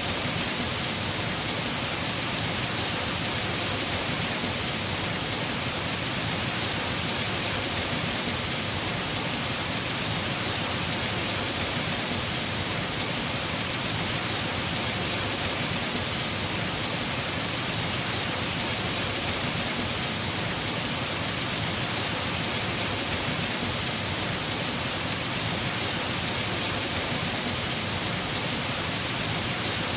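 Heavy rain falling steadily on a house roof: an even, unbroken hiss.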